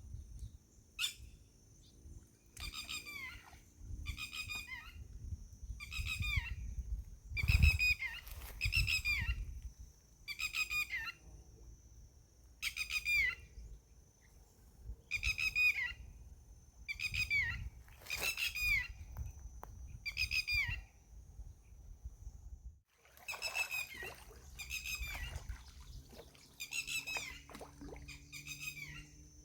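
A bird calling over and over in short, high, downward-curving calls, roughly one every second or so. Under the calls runs an uneven low rumble, with one louder bump about seven seconds in.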